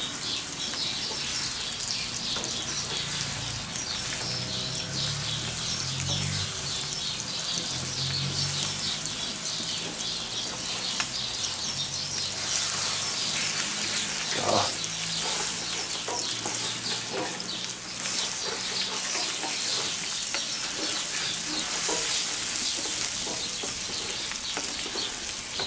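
Bacon, spring onions and eggs sizzling and crackling in a cast-iron pan over charcoal, with a wooden spatula scraping and stirring through the mixture. A single knock comes about halfway through.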